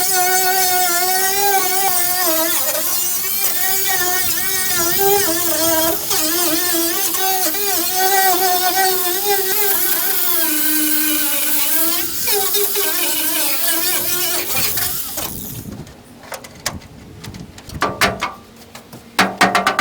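Angle grinder running against the steel truck bed to strip rust, its whine wavering in pitch as the load changes, then switched off about three-quarters of the way in. A few short clicks and knocks follow.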